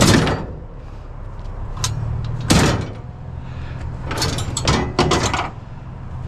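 Several hard knocks and clatters: a loud one at the start, another about two and a half seconds in, then a quick run of clattering about four to five seconds in, over a low steady hum.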